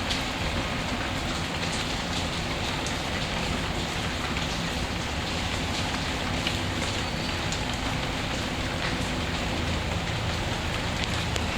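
Steady rain ambience, with occasional sharp crackles from a wood fire in a fireplace.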